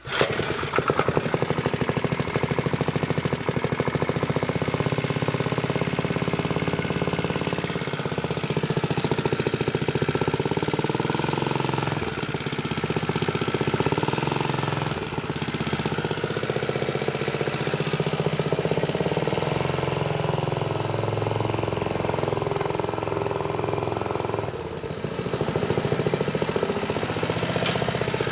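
Minibike's small single-cylinder four-stroke Briggs & Stratton engine catching right at the start on choke, then running steadily with small changes in speed.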